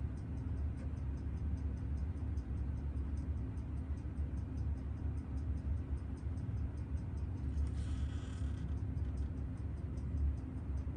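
Fast, even ticking, about six ticks a second, over a steady low hum, with a brief rustle about eight seconds in.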